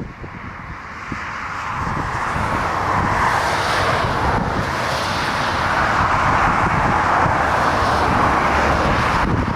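Jet airliner engine noise swelling over the first few seconds as the plane comes close on landing, then holding loud, with strong wind buffeting the microphone. The engine sound breaks off suddenly near the end.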